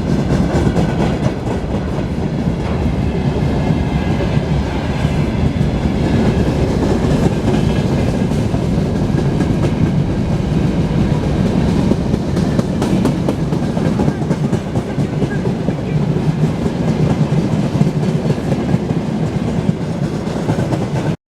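Freight train rolling past at close range, with a steady rumble and the wheels of its wagons clicking over the rail joints. The sound cuts off suddenly near the end.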